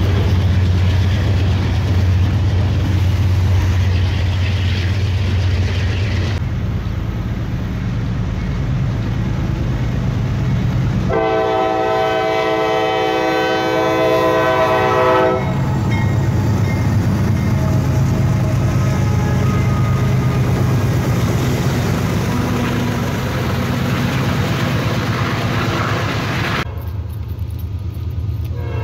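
Freight train passing close by with a steady rumble of wheels on rail. A diesel locomotive horn then sounds one long chord for about four seconds, and the locomotives rumble past. Near the end another locomotive horn starts up from an approaching train.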